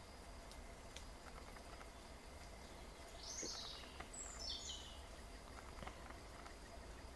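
Two short, high bird calls, each falling in pitch, about three and four seconds in; the second comes as a quick series of stepped notes. Faint scattered ticks run under them.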